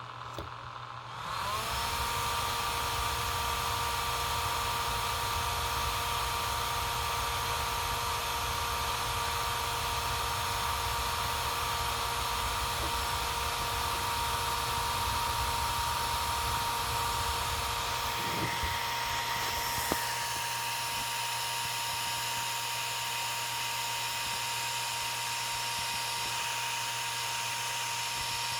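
DJI Mavic 2 Pro drone after being switched on, giving a steady electric whine made of several held tones. The whine starts about a second in with a short upward glide and changes to a slightly quieter pitch pattern about two-thirds of the way through. This is the odd start-up noise that the owner doesn't think is normal and wonders might be the cooling fan.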